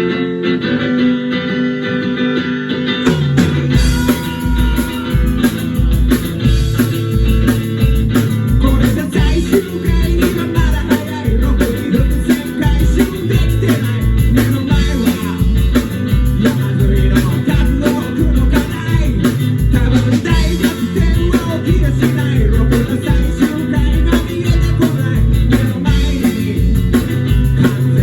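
Live rock and roll band playing: electric guitar alone at first, then bass and drums come in about four seconds in with a steady driving beat.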